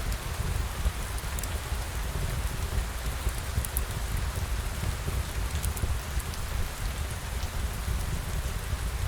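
Steady rain falling, with scattered light ticks of drops and a low rumble underneath.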